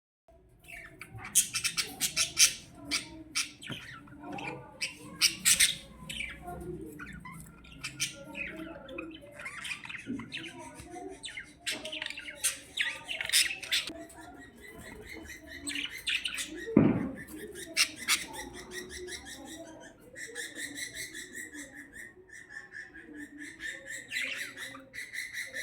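A crowd of budgerigars (parakeets) chirping and squawking, many short sharp calls overlapping throughout. About twenty seconds in, it gives way to a steadier run of fast chattering warble.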